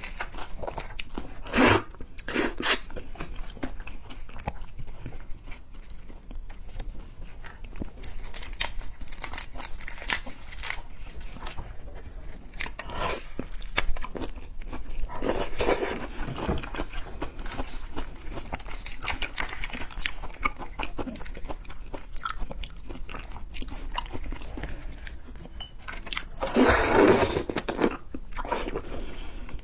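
Close-miked eating: a person biting and chewing seafood, with wet crunching and a steady patter of small clicks. Louder crunchy bites come every so often, the loudest near the end.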